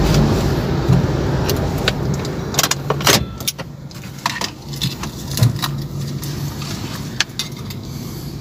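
Small car's engine running at idle, heard from inside the cabin as a steady low hum, with scattered clicks and jingles of keys and handling in the car.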